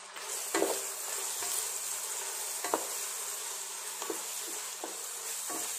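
Sliced onions and tomatoes sizzling as they fry in oil in a pot, with a steady high hiss. A wooden spatula knocks and scrapes against the pot a few times as they are stirred.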